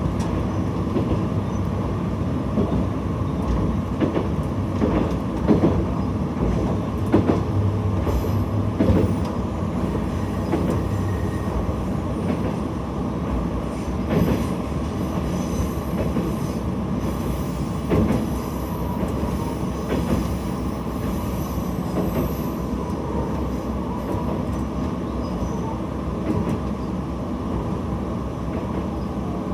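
Single-car diesel railcar running along the line, a steady rumble of engine and wheels on rail, with wheels clicking over rail joints now and then.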